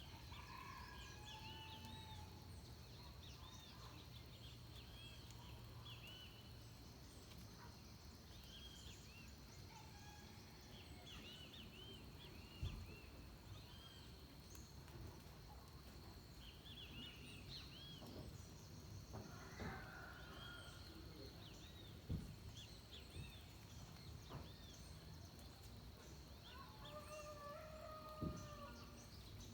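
Faint dawn chorus of forest birds: many short chirping calls overlapping, over a steady high-pitched whine and a low rumble. A few sharp knocks stand out, about 13, 22 and 28 seconds in.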